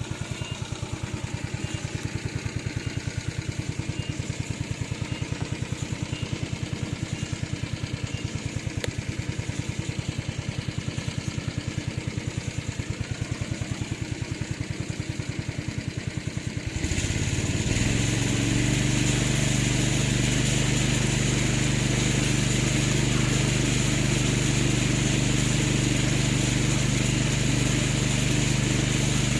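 Engine of a remote-controlled homemade lawn mower running at idle with a rapid, even beat, then about two-thirds of the way through it revs up and runs steadily louder.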